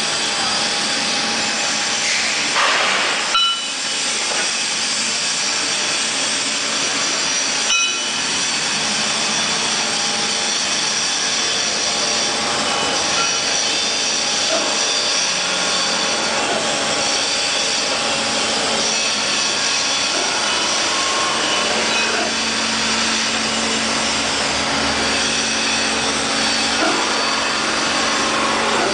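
End grinder machine running steadily, a constant hum under a hissing grinding noise, with a brief louder burst about three seconds in and a short knock near eight seconds.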